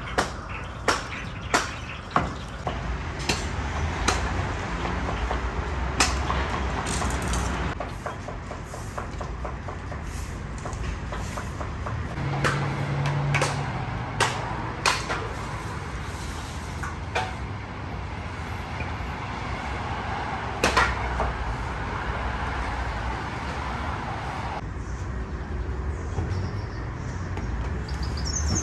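Commercial kitchen work noise: irregular sharp knocks and clanks over a steady low hum and rumble.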